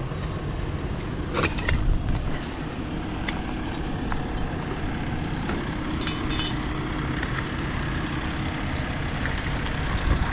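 Steady low rumble throughout, with light metallic clinks of climbing hardware as a climber rappels on a Zigzag friction device, a few near the start and a couple about six seconds in.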